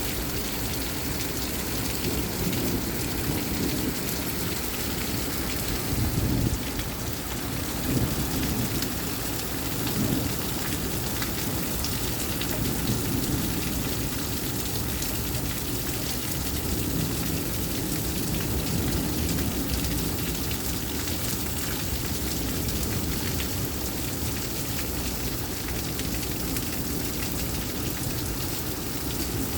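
Rain falling steadily during a thunderstorm, with low rumbles of thunder swelling a few times about a quarter of the way in.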